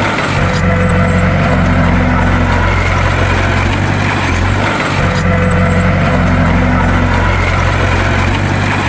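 Bulldozer's diesel engine running steadily with a deep, even drone, dipping briefly about five seconds in.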